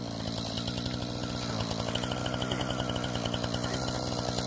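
Chainsaw engine running steadily at a fast, even beat.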